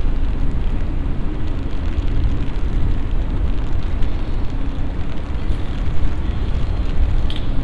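Steady rain shower in the city, a continuous wash of noise with a heavy low rumble underneath.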